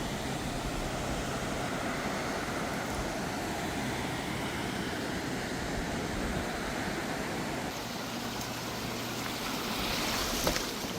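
Steady rushing of a fast-flowing river, with a few sharp clicks near the end.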